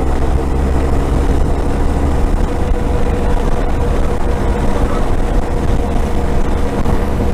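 Motorcycle engine running at a steady cruising speed, with low wind rumble on the rider's microphone.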